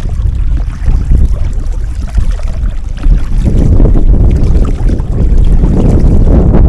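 Strong gusting wind buffeting the microphone, a loud low rumble that swells about three and a half seconds in.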